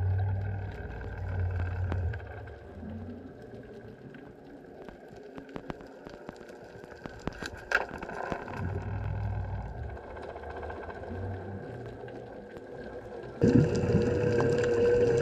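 Outboard boat on the water: a low engine hum that fades in and out, with water sounds and scattered clicks. Near the end a much louder, steadier engine sound cuts in suddenly.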